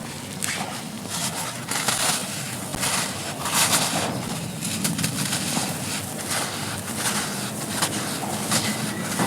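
Dry, grainy charcoal floor-chalk shapes being crumbled and crushed, an irregular run of crisp crunches and crackles with a soft gritty rustle underneath.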